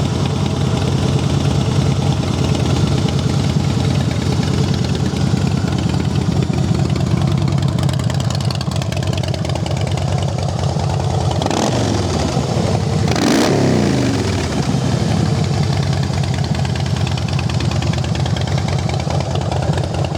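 Harley-Davidson Fat Boy's 103 cubic-inch V-twin with Vance & Hines exhaust idling steadily, revved twice about halfway through, then settling back to idle.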